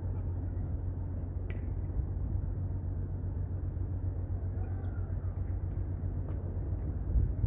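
Strong wind buffeting the microphone: a steady low rumble, with a few faint short high chirps over it.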